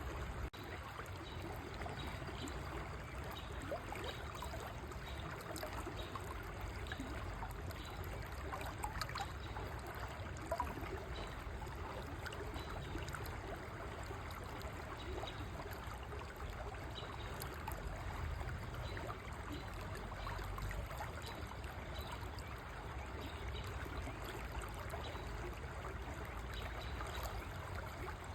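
River water flowing steadily, a continuous rush and trickle of moving water.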